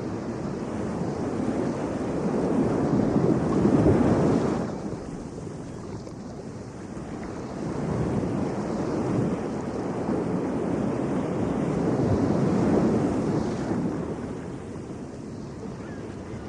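Ocean surf breaking and washing up a beach in slow swells. It builds to a peak that drops off sharply about four and a half seconds in, then rises again into a second long wave that fades near the end.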